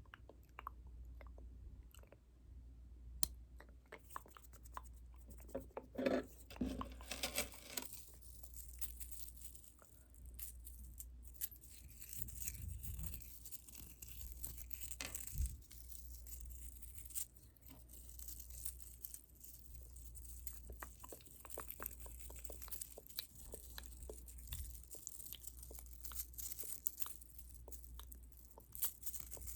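Close-miked ASMR trigger sounds: a dense run of small crackling, scratchy clicks and crinkles, with a louder cluster about six to eight seconds in.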